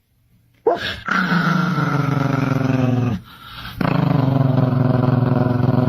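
A dog growling low in two long, drawn-out stretches, with a short break a little past three seconds in.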